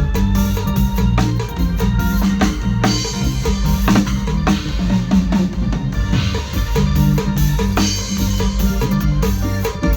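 A band playing during a sound check: a drum kit with kick and snare over a steady bass line, with keyboard tones above.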